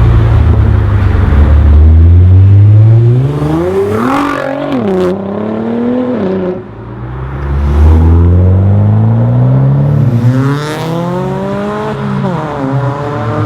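Nissan GT-R's twin-turbo V6 through an Akrapovic exhaust, revving: the pitch climbs steadily and then drops sharply, about four times over the stretch.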